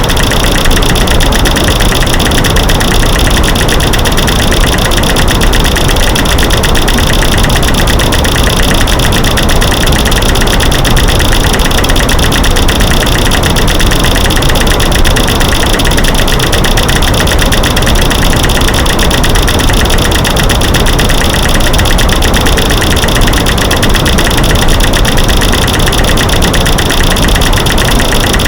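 Loud, dense, steady stream of rapid clicks, snaps and knocks from light switches, breaking sticks and banging rocks, mixed over a white-noise hiss.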